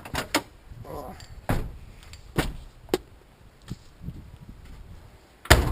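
Irregular sharp knocks and clanks of tools and engine parts being handled, about six in all, with the loudest bang near the end.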